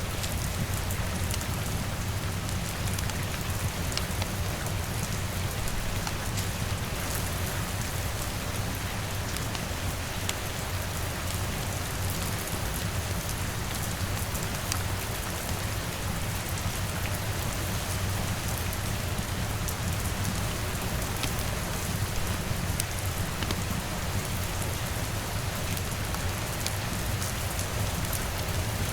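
Steady rain on a window mixed with a crackling fire, its sharp pops scattered through the even hiss, over a steady low rumble.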